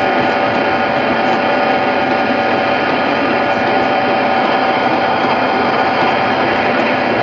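CB radio hissing with a steady hum after a call on channel 19, with no one answering: an open, empty channel.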